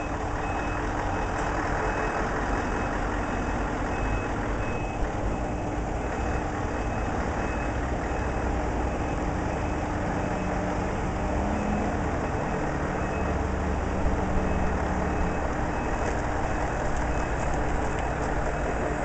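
Heavy lorry engine running steadily, with a reversing alarm beeping at an even pace over it.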